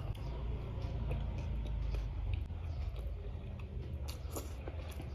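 Close-miked chewing, with soft scattered clicks of eating, over a steady low hum.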